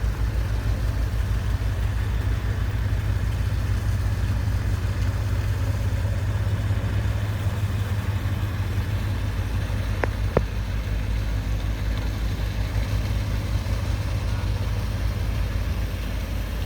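An engine idling steadily with a low, even rhythmic throb. Two short clicks come about ten seconds in.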